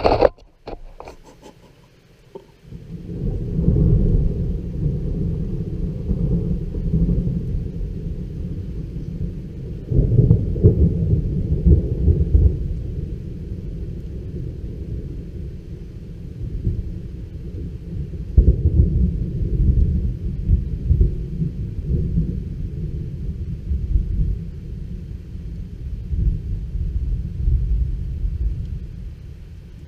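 Rolling thunder from a thunderstorm: a long low rumble starts about two and a half seconds in and swells and fades several times before easing off near the end.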